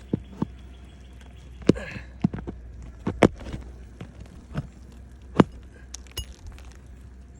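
A series of irregular sharp knocks and clicks, a second or so apart, the loudest about halfway through, over a low steady hum.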